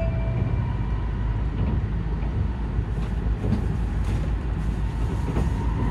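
Cabin noise inside an N700S Shinkansen car in motion: a steady low rumble of the running train. The last tones of the on-board chime melody fade out in the first half second.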